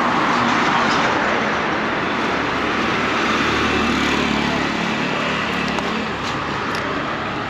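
Royal Enfield Hunter 350's single-cylinder engine and exhaust running steadily while the motorcycle is ridden, under heavy wind rush on the microphone. The low engine note is strongest around the middle.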